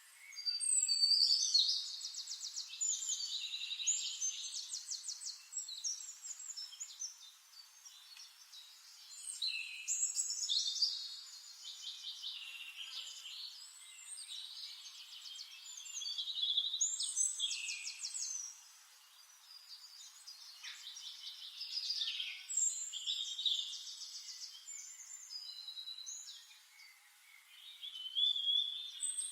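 A songbird singing long phrases of fast trills and warbles, with a new phrase every six or seven seconds.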